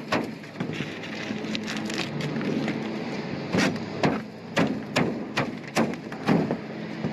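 Irregular knocks and clanks on a trailer home's thin metal roof as the old patch is worked on, with a steady low hum underneath.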